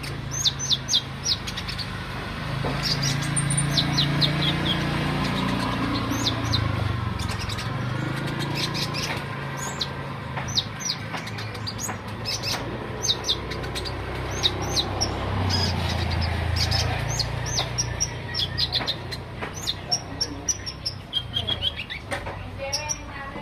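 A kolibri ninja sunbird singing actively: quick runs of thin, high chirps, each sweeping downward, repeated over and over with short gaps. A low rumble runs underneath.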